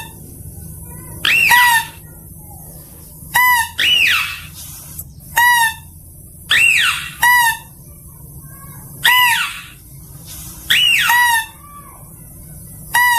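Lure recording of mouse-deer (kancil) calls: a pair of sharp, squealing calls repeated about every two seconds, a high call that rises and falls followed by a shorter, lower call, over a steady hiss.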